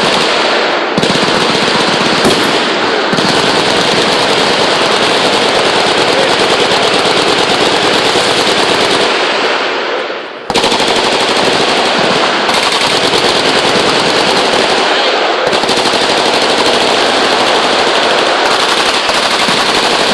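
Many machine guns firing at once in sustained automatic fire, the shots running together without gaps. The fire eases off briefly about halfway through and starts again at full level a second later.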